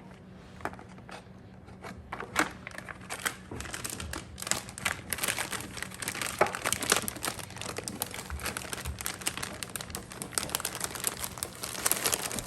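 Plastic cheese packaging crinkling and crackling as it is handled, sparse at first and then dense and louder from about four seconds in.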